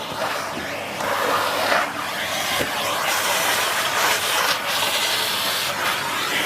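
Miele C2 Compact (S6 Cat and Dog) cylinder vacuum cleaner with its 2000 W motor running, a steady rushing hiss of suction that swells and dips slightly as the nozzle is worked over surfaces.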